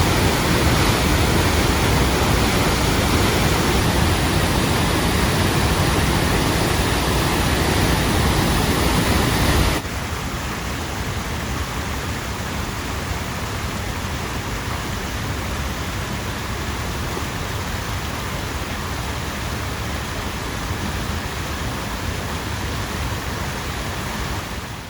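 Chapman Falls on the Eight Mile River in flood after heavy rain: a steady, loud rush of water pouring over the falls. About ten seconds in it drops abruptly to a quieter but still steady rush.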